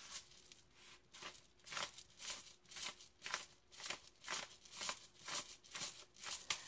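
Hand pepper grinder being twisted over and over, grinding peppercorns in a steady run of short crunching strokes, about two to three a second.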